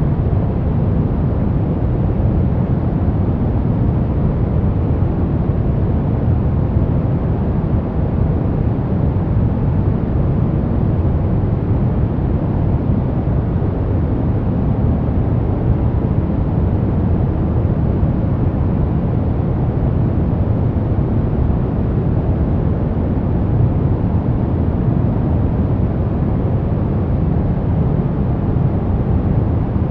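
Steady baby-sleep white noise, weighted toward a deep low rumble with little treble, running evenly without any change.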